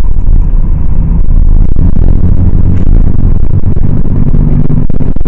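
Loud engine and road rumble of a car being driven, heard from inside the cabin; the moving-car noise is heavy enough to drown out speech.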